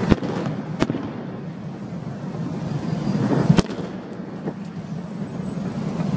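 Aerial fireworks exploding: a sharp bang at the start, another just under a second in, and the loudest about three and a half seconds in, over a continuous low rumble.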